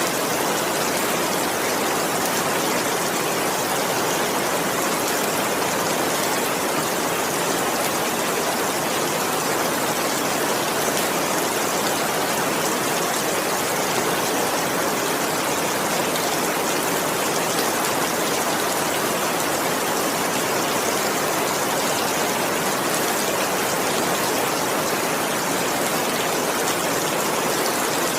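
Steady heavy rain falling, an even, unbroken hiss of water with no individual drops or thunder standing out.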